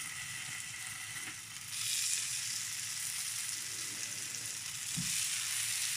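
Slices of cold, set yam porridge sizzling in hot oil in a frying pan, a steady hiss that grows louder about two seconds in as a second slice goes into the pan.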